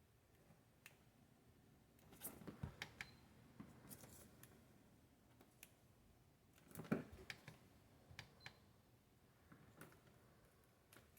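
Near silence with scattered faint clicks and handling noises from multimeter test leads and alligator clips being hooked up, in two small clusters about two seconds in and about seven seconds in. No continuity beep sounds from the meter.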